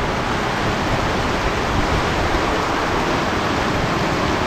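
Heavy monsoon rain pouring down steadily, an even, dense hiss with no let-up.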